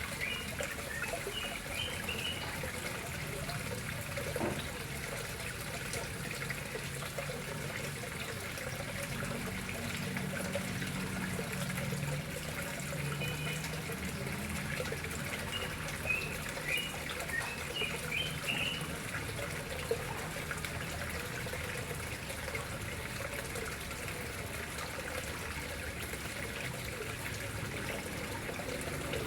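Water trickling and splashing steadily into a koi pond. Short high chirps come near the start and again about two-thirds of the way in.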